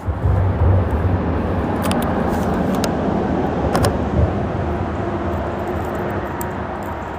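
Freeway traffic passing on the bridge overhead: a loud rushing rumble that swells at the start and slowly fades, with a couple of sharp clicks about two and four seconds in.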